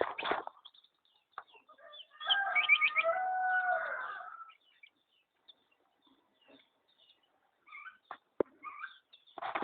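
A rooster crowing once: a single pitched call of about two seconds that holds steady and then trails off, followed by faint scattered chirps.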